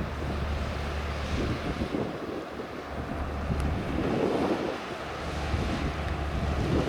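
Wind buffeting the microphone: a steady low rumble that drops out briefly now and then.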